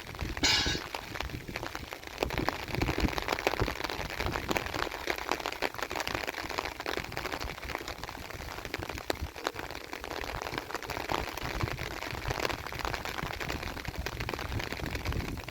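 Steady rain with a dense, irregular patter of drops. There is a short, brighter splash or rustle about half a second in.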